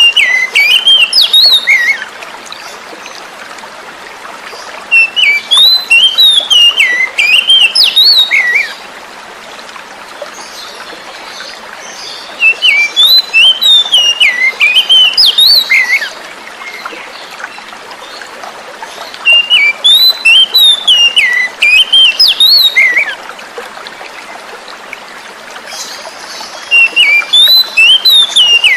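Oriental magpie-robin (kacer) singing in repeated bouts of quick, varied whistled phrases, each about three seconds long and coming roughly every seven seconds. The song sits over a steady rush of flowing water.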